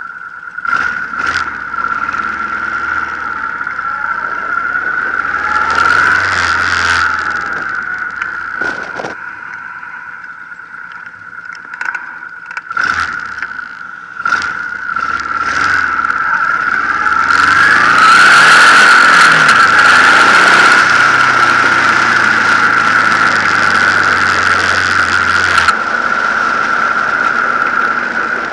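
Honda VTX 1800 C5's V-twin engine riding off and accelerating on the road, revs rising and falling through gear changes. A steady high-pitched whine runs under it, and rushing wind is loudest about two-thirds of the way through.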